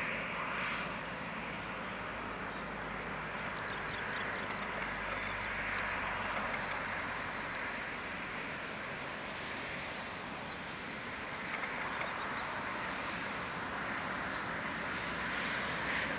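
Small birds chirping faintly, mostly in the first half, over a steady outdoor background hiss.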